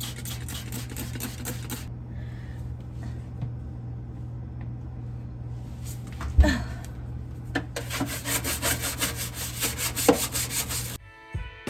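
Fast back-and-forth scrubbing on a refrigerator shelf, about five strokes a second, in two spells with a quieter pause between them, over a steady low hum. Guitar music comes in near the end.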